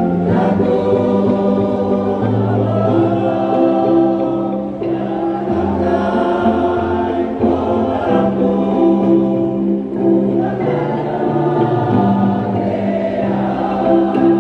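Mixed choir singing a slow song in harmony, holding long chords that change every couple of seconds.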